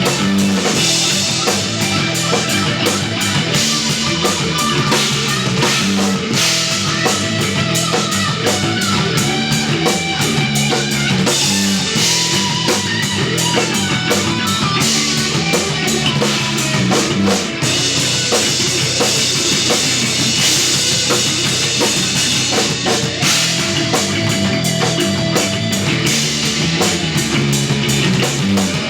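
Instrumental progressive/post-rock trio playing live: drum kit with cymbals, electric guitar and electric bass, continuous and loud, with the cymbals swelling in and out in sections.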